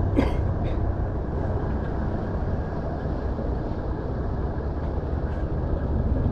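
Boat outboard motor running steadily, a low even drone. Two short clicks come near the start.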